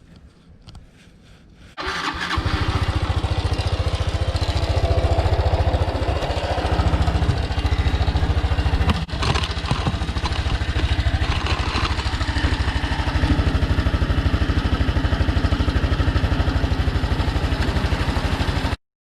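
Honda Super Cub Pro's single-cylinder four-stroke engine starts about two seconds in and idles steadily with an even pulse, then cuts off suddenly near the end. It is running with an abnormal engine noise that the owner is concerned about.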